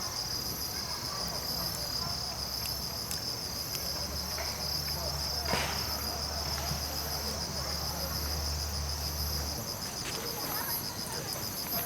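Insects chirping steadily in a fast, high-pitched pulsing trill, with a few sharp pops from a wood campfire, the loudest about halfway through. A low hum runs underneath for several seconds in the middle.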